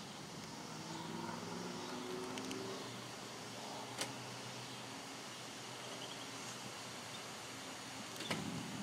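Steady wind-and-rain storm noise, with a faint engine-like hum in roughly the first three seconds. Two sharp clicks, one about four seconds in and one near the end.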